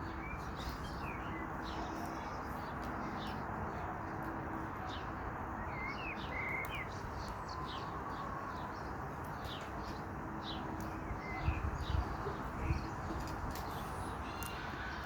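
Wild birds chirping, many short high calls scattered throughout, over a steady hiss; a few low knocks come about eleven to thirteen seconds in.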